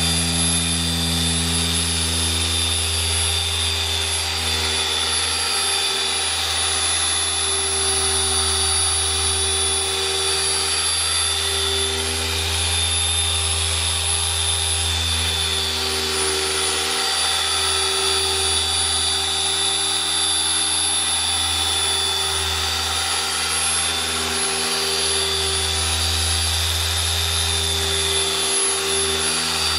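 Electric car-paint polisher running at high speed: a steady motor hum with a high whine, wavering slightly in pitch and strength as it is worked across the panel.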